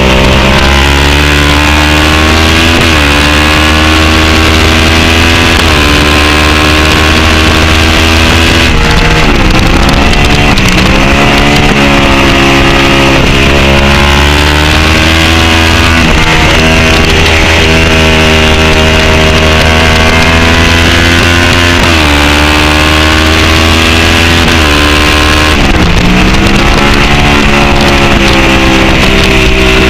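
Racing sport bike engine at high revs on track, its pitch climbing through each gear and falling back at the shifts, with two deeper drops as it slows for corners, about nine seconds in and near the end. Wind noise on the bike-mounted camera runs underneath.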